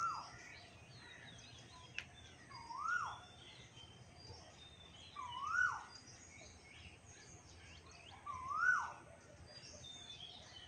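Birds calling: one bird repeats a short call that rises then falls, four times about three seconds apart, over many faint higher chirps from other birds. A single sharp click about two seconds in.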